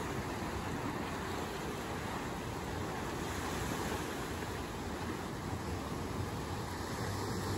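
Steady wash of sea surf, an even rushing noise with no distinct events.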